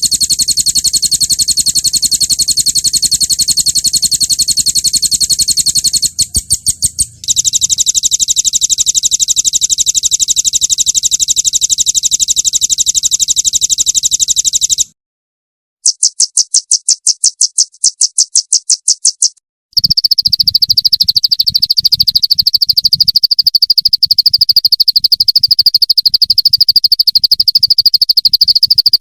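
Songbird rolling trills of the 'roll tembak' kind: long runs of very fast, evenly repeated high notes, broken by a few short pauses, with a choppier run about two-thirds through and a slightly lower-pitched run at the end.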